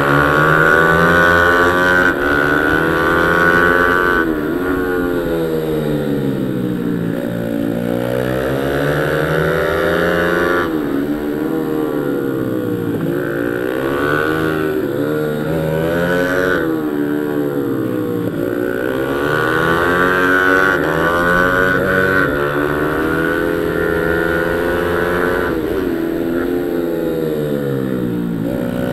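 Pit bike's single-cylinder four-stroke engine run hard on track, its pitch climbing as it accelerates and dropping back every few seconds as it slows for the corners.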